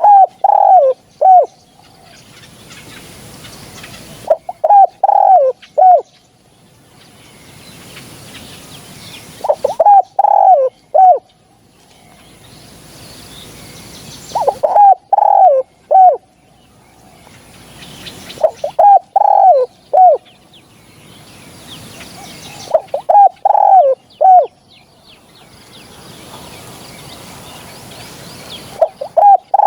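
Spotted dove cooing: a short phrase of a few coos with a separate final note, repeated about every five seconds.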